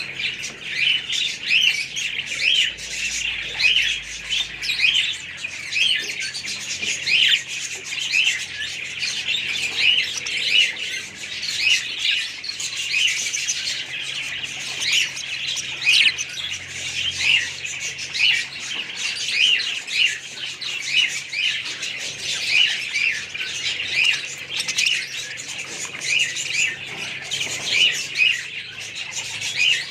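A flock of budgerigars chirping and chattering without a break, many short calls overlapping.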